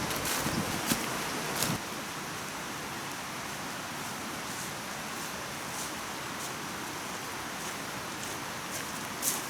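Steady rush of a stream flowing, with a few sharp clicks in the first two seconds.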